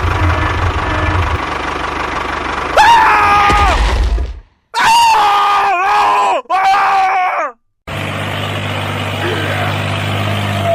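A small engine running steadily, cut off about three seconds in by loud, high-pitched scream-like wails in three short bursts; the engine hum returns near the end.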